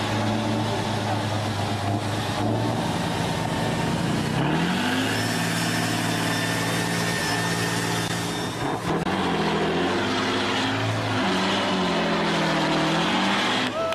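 Large diesel truck engine running under load, steady at first, then climbing in pitch about four seconds in and revving up and down several times in the second half.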